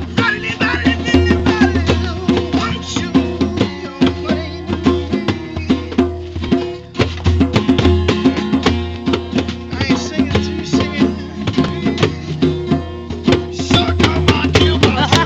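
A live band playing amplified music, with a busy, steady drum beat over held bass notes.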